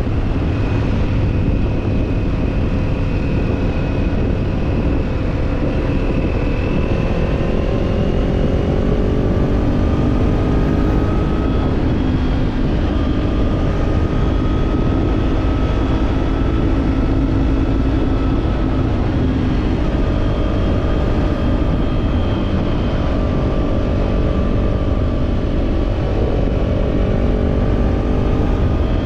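Kawasaki parallel-twin motorcycle with an aftermarket slip-on exhaust, running at fairly steady cruising revs, its engine note rising and falling slowly and gently, over a low rumble of wind.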